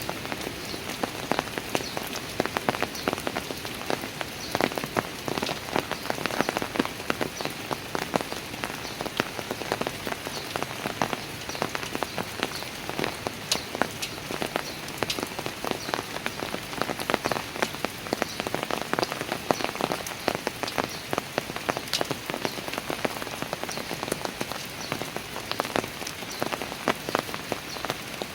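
Steady rain, with many individual drops ticking sharply close by.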